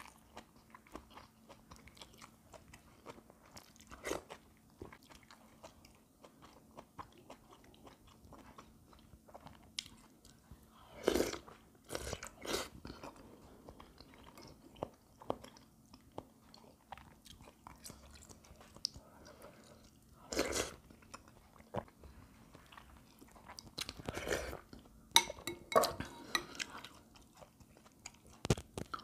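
A person chewing food close to the microphone, with many small clicks and a few louder bursts of eating noise, the loudest about eleven seconds in, at about twenty seconds, and again between about twenty-four and twenty-seven seconds.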